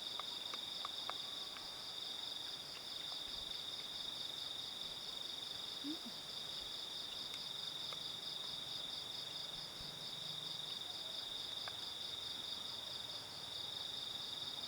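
Night insects trilling in a steady, high-pitched chorus, with a few faint clicks in the first second.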